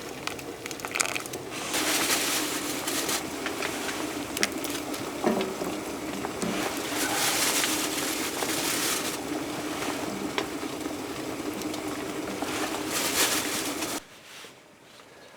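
Food sizzling and frying in a pan, with a few light clicks and scrapes of a utensil; the sizzle stops abruptly near the end.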